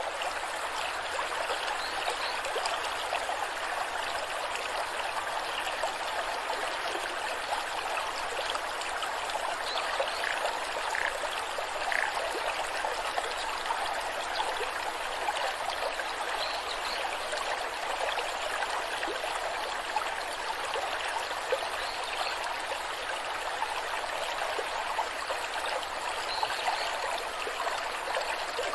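Rushing waterfall: cascading water making a steady, even hiss, more hiss than low rumble.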